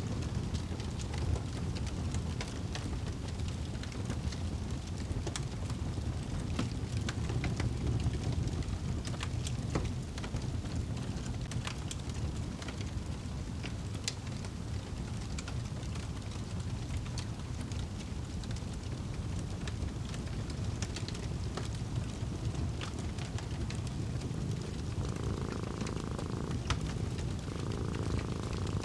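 Wood fire crackling in a fireplace, with scattered sharp pops and snaps over a low, steady rumble.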